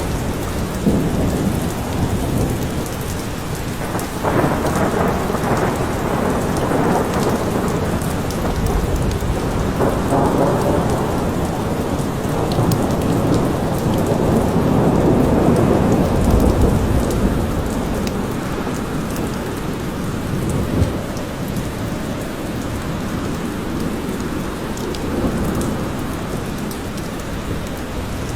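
Steady rain falling in a forest, with low rolling thunder that swells up several times and dies away.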